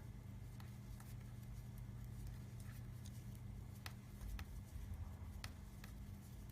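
Knitting needles clicking faintly and irregularly as stitches are worked, a handful of light clicks a second or more apart, over a low steady hum.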